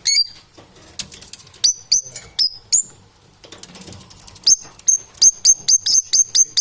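Parrot calling in sharp, high chirps: a few scattered ones at first, then a fast run of about four chirps a second from midway on.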